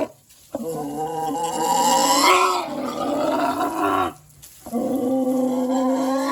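Pigs squealing and calling in long, drawn-out cries, breaking off briefly twice.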